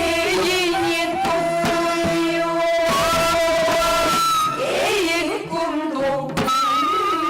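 Korean traditional folk singing with instrumental accompaniment, in long held notes with a wavering, ornamented pitch.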